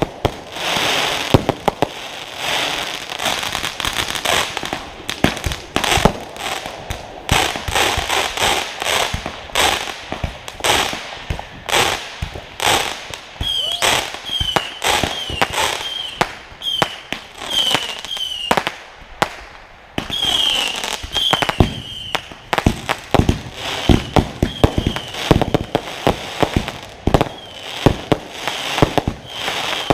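Consumer fireworks firing in a rapid finale: a dense, continuous string of launch thumps and sharp aerial bangs, rarely more than a second apart. For several seconds midway, short high chirps sound between the bangs.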